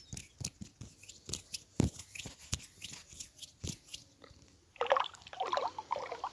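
Close-miked ASMR tapping: a run of sharp, separate taps and clicks. About five seconds in it turns into a denser, crackly stretch of wet clicking sounds.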